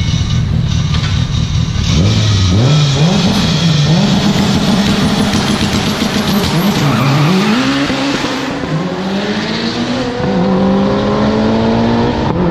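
Turbocharged sports car engine under hard acceleration. After a couple of seconds of road and wind rush, the revs climb and fall back several times in quick shifts, then build in one long, steady pull.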